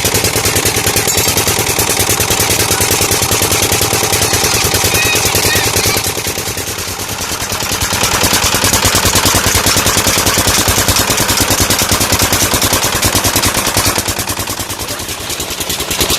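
Tube-well diesel engine running steadily with a fast, even beat of exhaust pulses, briefly quieter twice.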